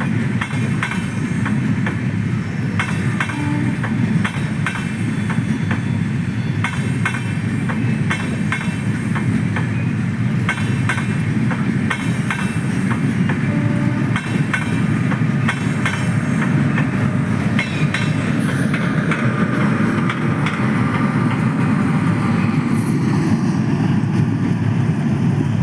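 Coaches of the Amrit Bharat Express rolling past as the train leaves the station: a steady rumble with repeated wheel clicks over rail joints, the clicks thinning out in the last third.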